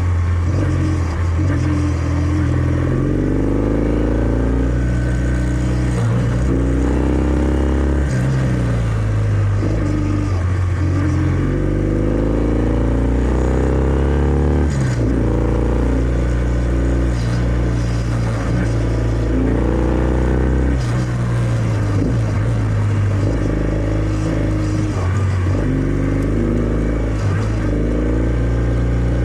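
Kawasaki W650 air-cooled parallel-twin engine heard through its stock exhaust while riding. Its pitch climbs again and again as the bike accelerates and drops back at each gear change or roll-off, with one sharp drop about fifteen seconds in.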